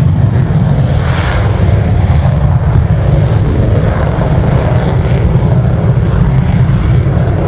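Loud, steady jet noise from an F-35C Lightning II's Pratt & Whitney F135 engine as the fighter flies its pass, mostly a deep rumble.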